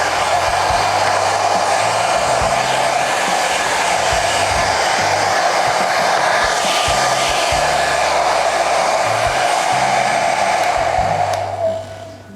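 Hand-held hair dryer blowing steadily with a whine, drying freshly applied water-based paint; it winds down and switches off near the end.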